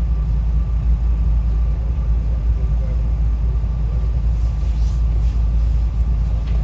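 Steady low rumble of a SEPTA Regional Rail electric train heard from inside the car while it runs, with a faint steady whine above it.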